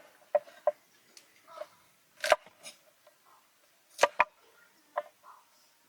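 Irregular sharp knocks and taps of cooking utensils and food preparation, about six in all, each with a short ring; the loudest come as a close pair about four seconds in.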